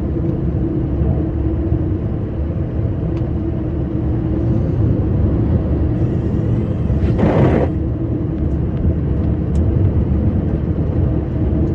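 Scania R560 plow truck's V8 diesel running steadily under heavy load, pushing deep snow uphill. A brief louder rushing noise comes about seven seconds in.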